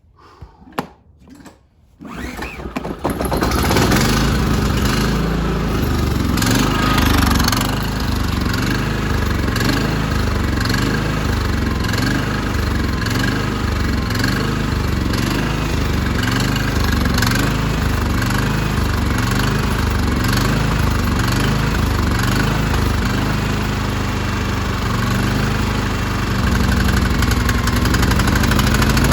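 Firman inverter generator's small engine starting on choke: a few faint knocks, then it catches about two seconds in and settles into a steady run with a regular low pulsing. It runs only with the choke on, which the owner takes as a sign that the carburetor needs cleaning.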